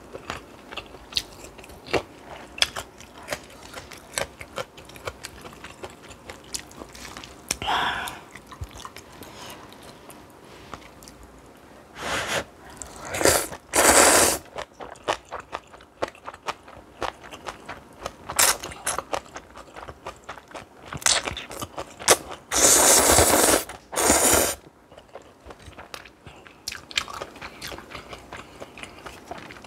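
Close-miked eating: steady chewing and crunching with many small wet clicks. Louder, second-long noisy bursts come about halfway through and again near the end.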